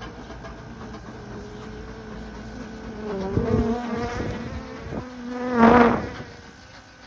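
Honeybees flying close around the microphone, a wavering buzz whose pitch slides up and down as they circle; one bee passes very close just before the end, making the loudest buzz, then it fades.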